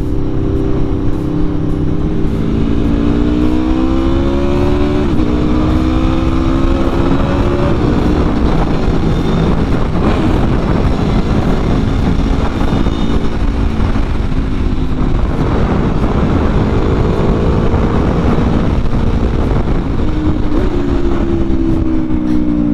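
Aprilia RSV4's V4 engine through a full Akrapovič titanium exhaust, heard from the saddle with heavy wind rush. It pulls up through a gear, shifts up about five seconds in and climbs again, then the sound is mostly wind at speed. Near the end the revs jump and fall away, as on a downshift.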